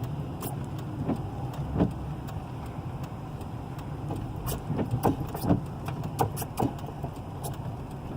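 Car driving slowly, a steady low engine and road rumble with scattered sharp clicks and knocks. The car is pushing a stalled car along.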